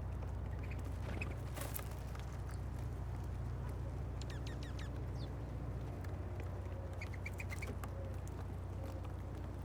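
Small songbirds chirping now and then, with a few thin high calls in the middle and a quick run of about five chirps near the end, plus scattered faint clicks. A steady low hum runs underneath and is the loudest sound.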